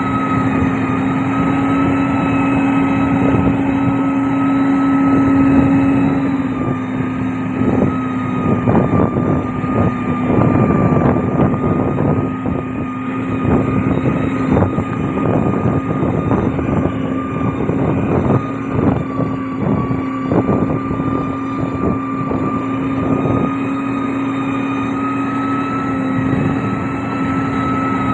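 Heavy road-construction machine's diesel engine running with a steady hum, and irregular knocking and crackling through the middle stretch.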